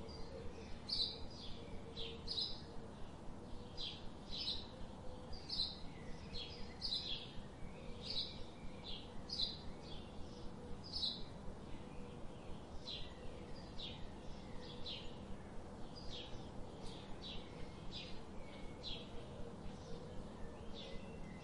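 Birds chirping: short, high calls repeating about twice a second.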